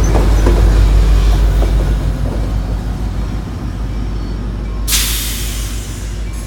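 Coaster commuter train pulling into the station with a heavy low rumble that eases slightly. About five seconds in, a sudden loud hiss of air from the train's air brakes cuts in and keeps going.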